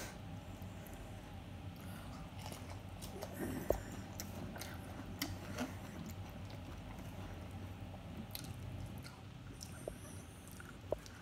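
A person chewing and biting mouthfuls of chicken nachos, with a few sharp clicks scattered through, the loudest a little under four seconds in.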